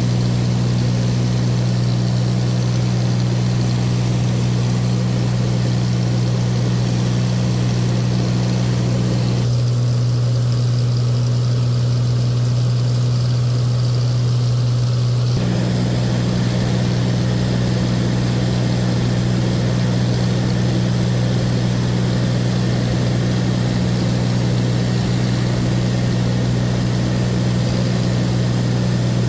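Light aircraft's engine and propeller droning steadily at cruise. For about six seconds around the middle the higher hiss drops away and the drone sounds more muffled.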